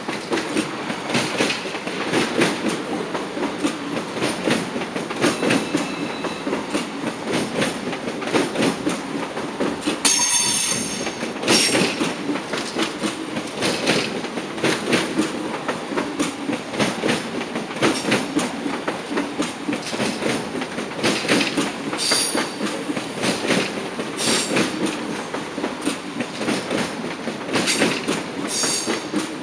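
Deutsche Bahn ICE train rolling slowly past at close range, its wheels clattering over rail joints and points in a fast, steady run of clicks. Brief high wheel squeals come about ten seconds in, again around twenty-two seconds, and near the end.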